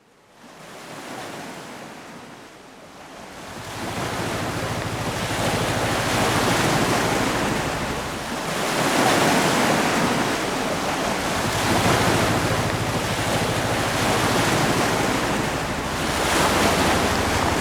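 Sea waves washing in with wind, fading in from quiet and swelling in surges, with a low steady hum underneath.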